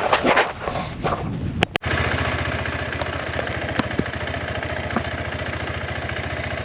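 Motorcycle engine running with a steady, even pulse, starting abruptly about two seconds in.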